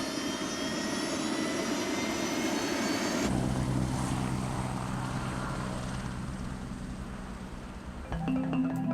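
Helicopter engine: a high whine rising slightly in pitch over a noisy rush, then a sudden change after about three seconds to a steady low engine and rotor drone. Marimba-like music comes in just before the end.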